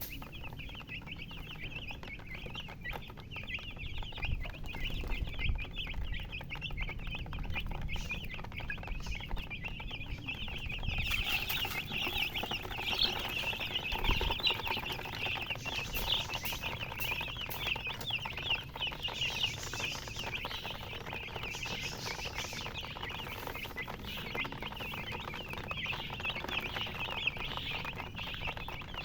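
A brood of baby chicks peeping continuously, many short high chirps overlapping, growing louder and busier about eleven seconds in.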